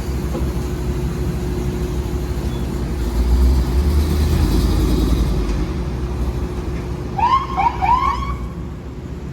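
Fire truck's diesel engine running with a heavy low rumble that grows louder about three seconds in, then three short rising siren chirps near the end as the siren is tested.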